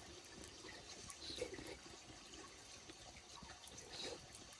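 Faint wet, juicy squelching from a fire-roasted whole Japanese leek (negi), its soft flesh full of liquid.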